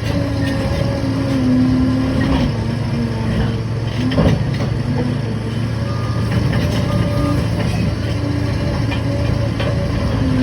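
Liebherr 746 crawler dozer's diesel engine running under working load, its low note rising and falling as the machine pushes. There is a single sharp knock about four seconds in and two short beeps a little past the middle.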